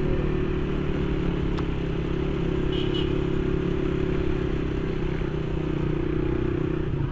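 Motorcycle engine running at a steady cruise, with road and wind noise. Two faint short high beeps about three seconds in.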